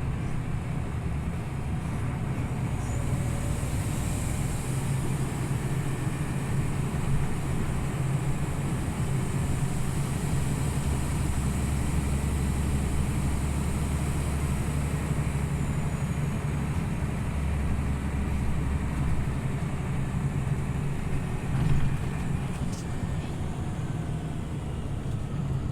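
Scania OmniLink CL94UB city bus under way, heard from inside: a steady engine hum with road and tyre noise. A deeper engine drone joins about ten seconds in and drops away about three quarters of the way through.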